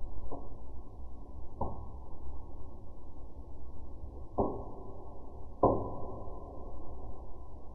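Fire in a fireplace crackling, slowed to half speed so the pops sound deep and muffled: four sharp pops with short ringing tails, the last two the loudest, over a steady low rumble.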